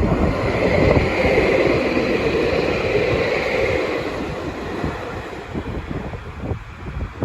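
A passing vehicle's rumble that is loudest in the first few seconds and then fades, over wind buffeting the microphone.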